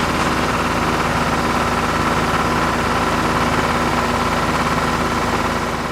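A small engine running steadily at a constant speed, with an even hum and a thin steady whine above it.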